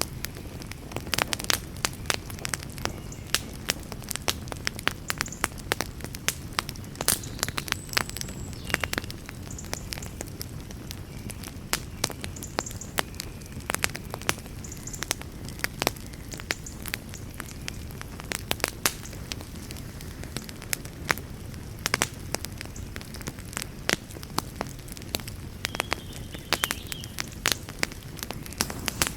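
Wood fire in a fireplace burning with a steady low rumble and frequent irregular sharp crackles and pops, with an occasional brief hiss.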